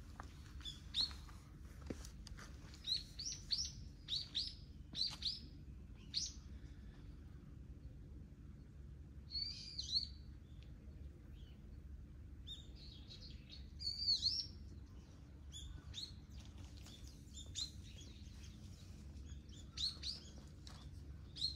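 Small birds chirping: short, high chirps in scattered bursts, some quick runs of them, over a steady low background rumble.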